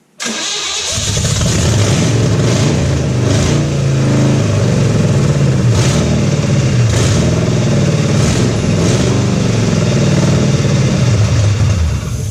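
Carbureted 305 small-block Chevy V8 running on open headers: it starts up very fast and runs with several short blips of throttle from the pedal, then shuts off right at the end.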